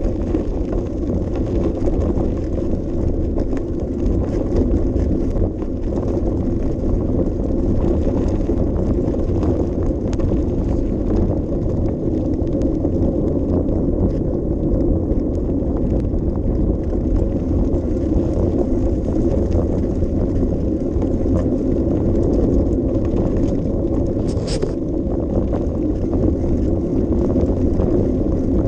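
Steady low rumble of wind and rolling movement noise on a GoPro's microphone while riding a bicycle along a path, with a brief high squeak about twenty-four seconds in.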